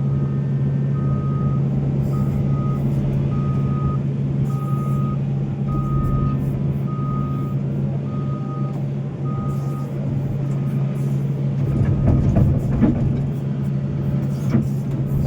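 Diesel engine of a Volvo excavator running steadily, with a backup alarm beeping about once a second until about two-thirds of the way through. Near the end come a few metallic knocks and clatters.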